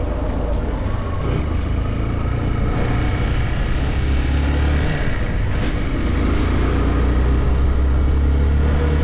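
Motorcycle engine running steadily as the bike rides along, with a short break in the engine note about five seconds in.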